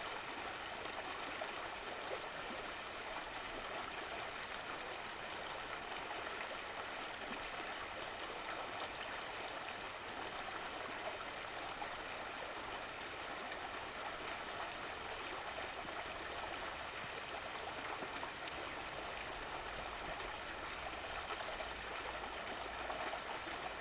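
Running water of a stream flowing steadily, a continuous even rush with light gurgling.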